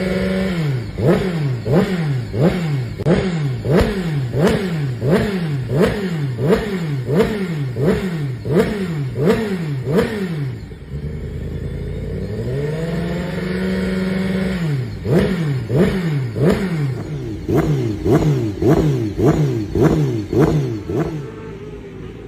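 Honda CBR Fireblade's inline-four engine revved through a loud exhaust in quick repeated throttle blips, about one and a half a second. Around the middle the revs fall, climb and are held steady for a moment. Then a second run of blips follows and stops shortly before the end.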